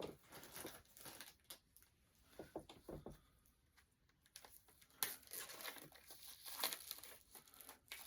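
Faint, intermittent crinkling and rustling of CD packaging being handled and unwrapped, busiest in the second half.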